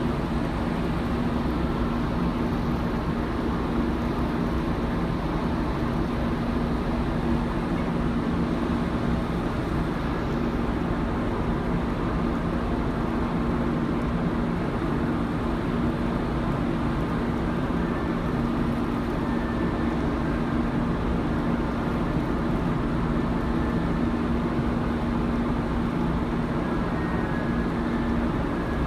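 Steady machinery drone aboard a large car ferry: the ship's engines and ventilation running with an even low hum.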